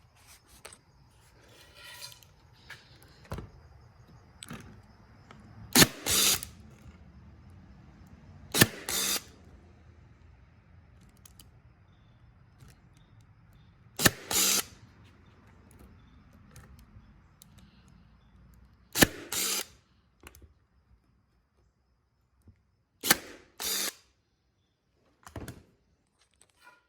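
Cordless drill driving screws into wood in six short bursts, each about half a second to a second long and several seconds apart, with quiet handling sounds in between.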